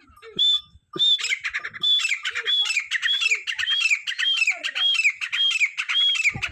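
Francolin (teetar) calling: one short shrill note, then a loud run of shrill, arched notes repeated about twice a second.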